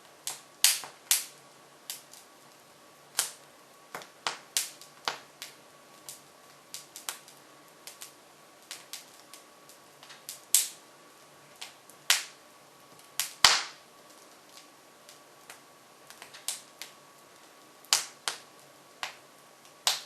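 Hardwood logs burning in an open-fronted Jøtul F500 wood stove, crackling with irregular sharp pops, a few of them much louder than the rest, the loudest about two-thirds of the way through.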